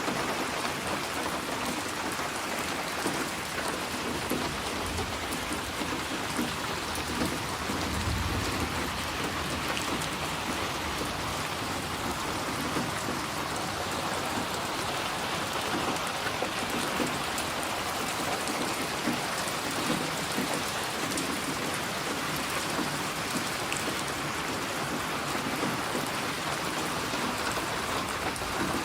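Steady rain falling and pattering on surfaces, with a brief low rumble about eight seconds in.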